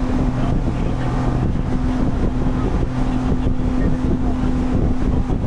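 Motorboat engine running with a steady hum while under way, with wind buffeting the microphone.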